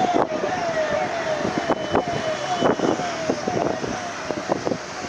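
A siren repeating a short falling tone about twice a second, over steady background noise with scattered clicks.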